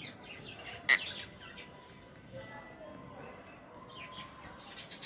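Birds chirping: quick, high, downward-sliding chirps in the first second and a half and again about four seconds in, with one sharp click about a second in.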